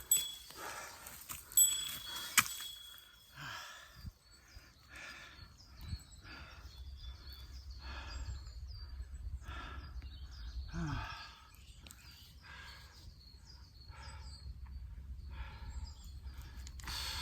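Small birds chirping in mountain woodland, with wind rumbling low on the microphone from about six seconds in. Under it, a soft sound repeats roughly once a second.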